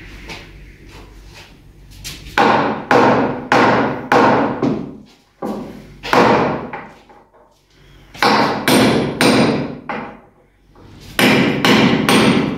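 Hammer striking the wooden boards of a homemade dog kennel, about a dozen loud blows in runs of two to five with short pauses between, each ringing briefly through the wood.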